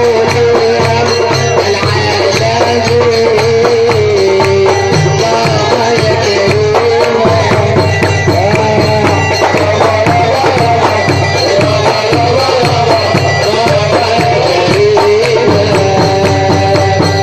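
Live Port Said simsimiyya folk music: a wavering melody over a steady, driving percussion beat.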